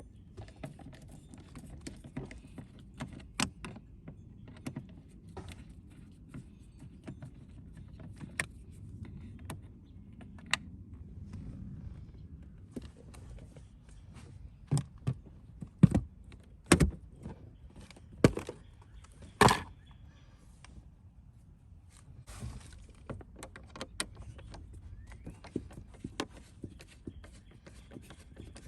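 Scattered clicks, clacks and knocks of hands and tools handling car parts while things are being disconnected, over a low handling rumble, with a run of louder knocks about two thirds of the way through.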